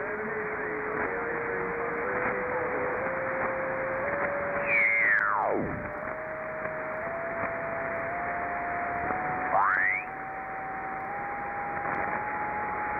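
Single-sideband receiver hiss from the RS-44 satellite downlink, with a steady whistling carrier tone that rises in small steps. A whistle sweeps quickly down about five seconds in and another sweeps up near ten seconds, as signals are tuned through the passband.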